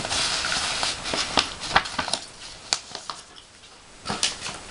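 Paper letter and envelope rustling and crinkling as the letter is slid back into its envelope, with a few sharp crackles of the paper scattered through.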